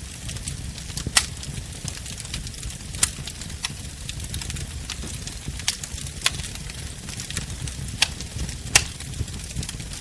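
Wood bonfire burning: a steady low rumble of flame under a scatter of small crackles, with a few sharp louder pops, the loudest about a second in and near the end.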